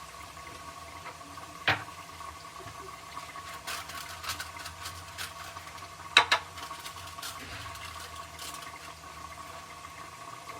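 Steady watery hiss with a faint steady hum underneath, broken by two sharp clacks, one about two seconds in and a louder one about six seconds in, with a few lighter clicks between.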